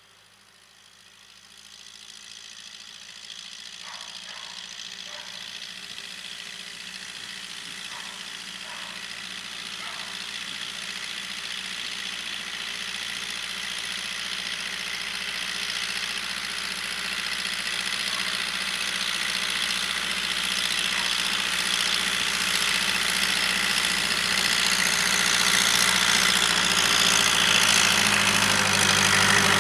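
Diesel engine of a Case 580K loader backhoe running, growing steadily louder from faint to loud.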